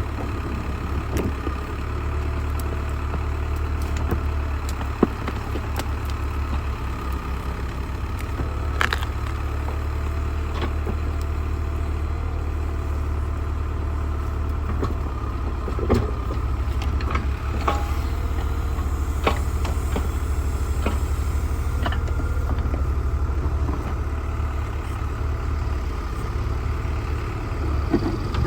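Old tractor backhoe's engine running steadily as it digs, with occasional sharp knocks and clanks from the digging.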